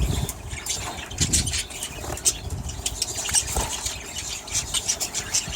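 A flock of budgerigars chirping and chattering in many short, high-pitched calls.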